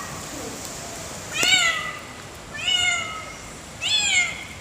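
A cat meowing three times, roughly once every second and a bit. Each call rises briefly and then falls in pitch.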